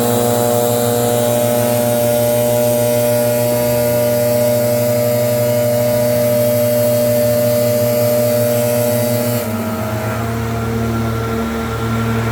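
Leaf blower's small engine running steadily at high throttle with a loud air rush. About nine and a half seconds in, the hiss drops and the pitch eases slightly lower as the throttle is backed off.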